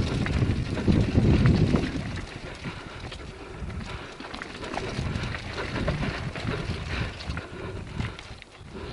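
Wind buffeting the microphone of a mountain bike riding a rough dirt trail, with many small rattles and clicks from the bike over the bumps. The wind rumble is heaviest for the first two seconds, then eases.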